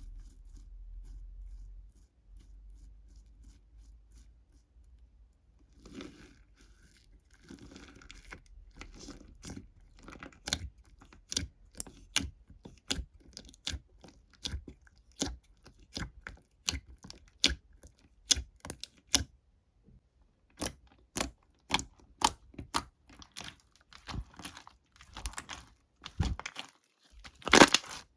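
Quiet for the first few seconds, then a run of short, crisp crackles, about one or two a second, growing busier and louder near the end.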